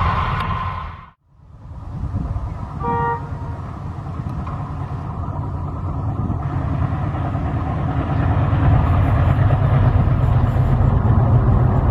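Train on the move with a steady low rumble that grows louder, broken by a brief dropout about a second in. A single short horn toot sounds about three seconds in.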